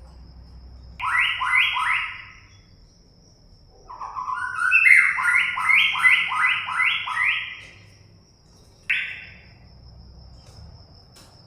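Wild red-whiskered bulbul singing: two bright phrases of quick, repeated sliding notes, the second longer, then a single short note near the end. A thin, steady high-pitched tone runs underneath.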